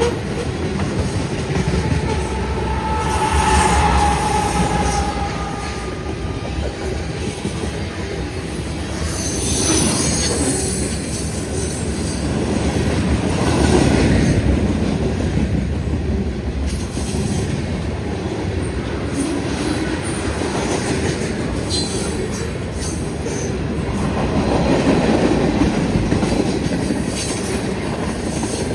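Southbound CSX mixed freight train with loaded autorack cars rolling past, its wheels clattering steadily over the rail. Short metallic squeals come from the wheels a few seconds in and again about ten seconds in.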